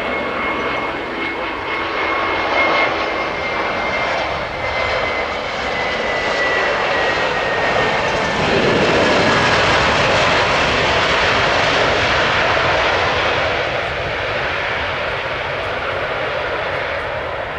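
Airliner's engines passing close by: a loud rush that swells to its peak about nine seconds in and eases off, with a high whine that slowly falls in pitch as the plane goes past.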